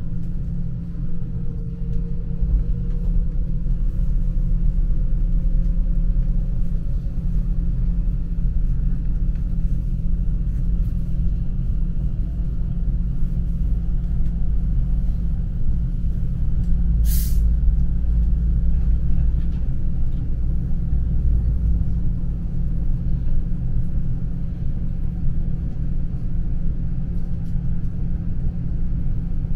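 S-Bahn electric train running along the track with a steady low rumble and a faint rising whine over the first several seconds. A single short, sharp hiss comes about seventeen seconds in.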